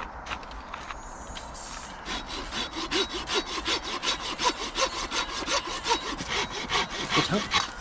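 Hand saw cutting through a piece of firewood in quick, even back-and-forth strokes, starting about two seconds in.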